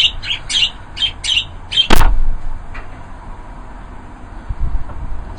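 Aviary birds chirping: a quick run of short, high chirps over the first two seconds, followed by one sharp knock.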